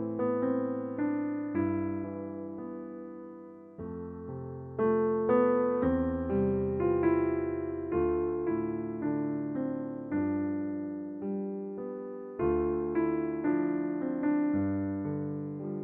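Background piano music: slow, gentle chords under a simple melody, each note struck and left to fade.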